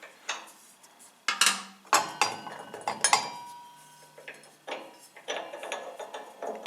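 Metal clinks and clanks of a table saw blade change: a wrench working the arbor nut and the carbide-tipped blade knocking against the saw's metal parts, about a dozen separate strikes, a few of them ringing on briefly.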